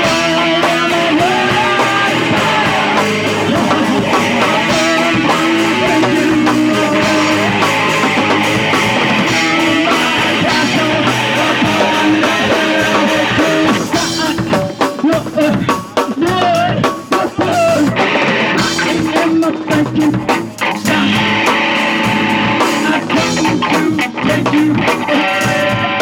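Punk rock band playing loudly, with distorted electric guitar over a drum kit. The guitar drops out for a few seconds about halfway through while the drums carry on, then comes back.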